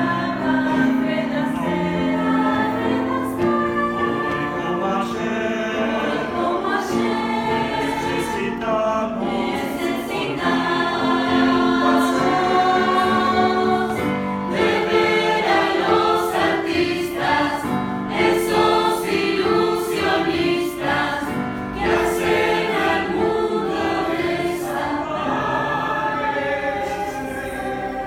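Youth choir singing in several voice parts, in a steady run of sustained sung notes.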